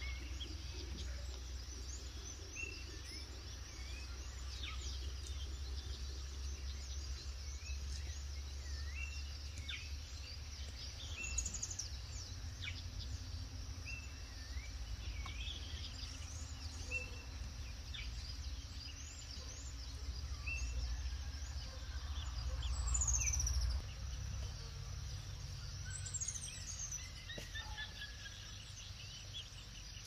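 Several wild birds calling: scattered short chirps, a few quick falling whistles and a fast trill near the end, over a steady low rumble.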